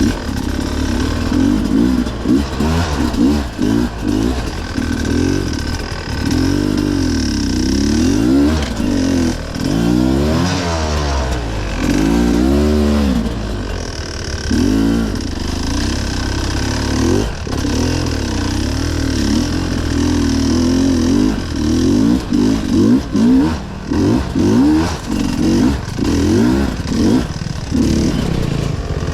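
Off-road enduro motorcycle engine under a rider's throttle, the revs rising and falling over and over as the throttle is opened and shut in quick blips.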